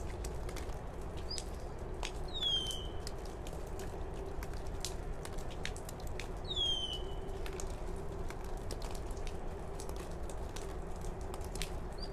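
A bird calls twice, about four seconds apart, each time a short high note followed by a falling whistle. Under it run small scattered clicks and crackles of soil and roots being handled in a pot, over a steady low hum.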